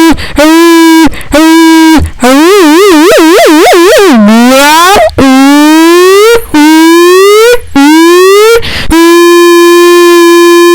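Loud, distorted buzzing tone that repeats short held notes at one pitch with brief breaks. About two seconds in it warbles up and down, sinks, then climbs in several rising swoops before settling on a long steady note.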